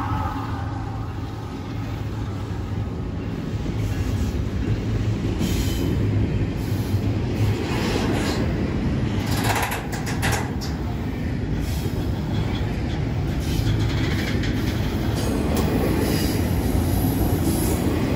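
Double-stack intermodal freight train rolling past close by: a steady rumble of steel wheels on rail, with short sharp metallic clanks and screeches from the wheels around the middle and again near the end.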